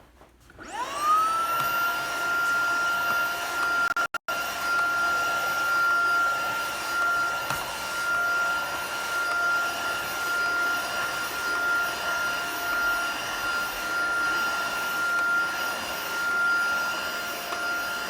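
Tineco cordless stick vacuum's motor spins up about half a second in, then runs steadily with a high whine while the upholstery brush tool is worked over a chair. The sound cuts out very briefly about four seconds in.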